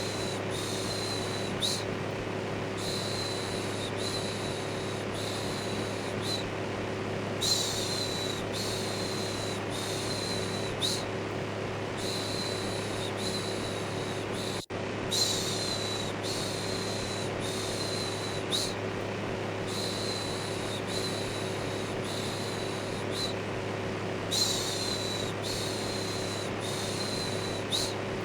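Steady electric fan whoosh with a low hum, overlaid with repeated "shhh" shushing, about one shush a second in runs separated by short pauses. The sound cuts out for an instant about halfway, at a loop joint.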